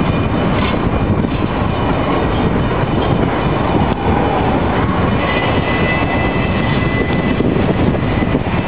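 Double-stack container train rolling past: a loud, steady rumble of wheels on rail, with a thin high squeal in the second half.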